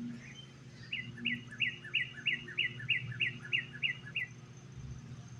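A songbird singing a quick, even series of about eleven repeated two-part notes, each a high downslurred whistle followed by a fainter lower note, for about three seconds.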